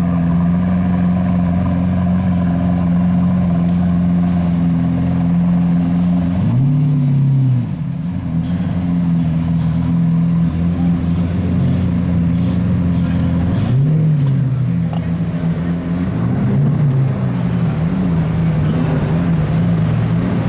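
Lamborghini Aventador V12 running through its Oakley Design titanium exhaust, idling steadily, with its pitch briefly rising and falling a few times as the engine speed changes.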